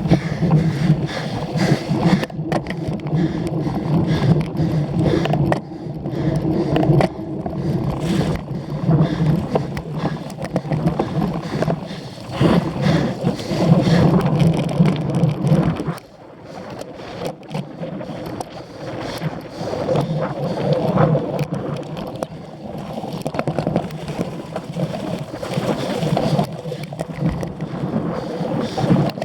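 Cyclocross bike being raced over rough ground: tyre rumble with chain and frame rattle, going quieter for a while about 16 seconds in.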